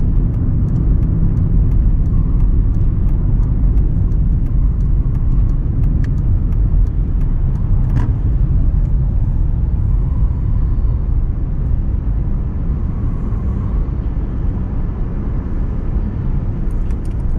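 Car cabin noise on the move: a steady low rumble of engine and road, with faint light clicks in the first half.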